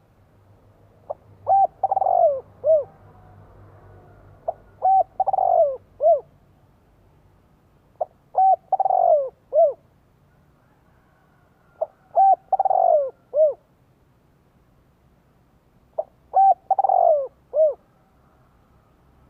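Spotted dove cooing its song five times, about every four seconds. Each phrase is a short note, a louder drawn-out coo sliding down in pitch, and a short closing note. It is the male's calling song, played here as a lure to draw wild doves into calling back.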